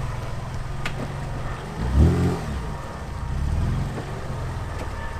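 Toyota MR2's engine running at low speed through a new aftermarket exhaust while the car is manoeuvred, with one brief rev that rises and falls about two seconds in.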